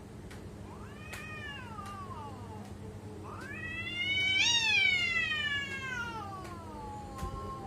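Cat yowling: two drawn-out caterwauls, a shorter one about a second in and a louder, longer one that rises in pitch and then slowly falls away.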